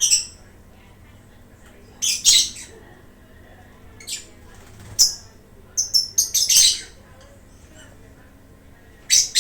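Lovebirds calling with shrill, high-pitched squawks in short bursts, about five times, a second or more apart.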